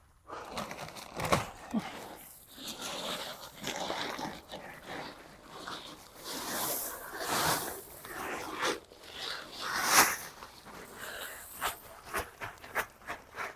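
A bag of pea pebbles being handled and emptied, with plastic rustling and pebbles crunching and spilling in irregular bursts.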